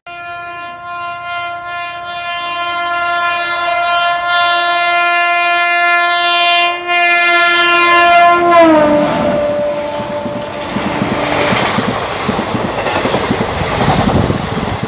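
Indian Railways WAP-7 electric locomotive sounding one long horn blast as it approaches. The horn drops in pitch as the locomotive passes, about eight and a half seconds in, and fades out a few seconds later. The coaches then rush past with wheels clacking over the rail joints.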